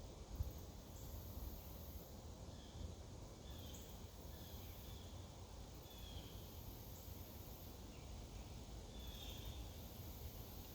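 Woodland ambience: a very high insect chorus that swells and breaks off every second or two, with a few short bird chirps over a faint low rumble.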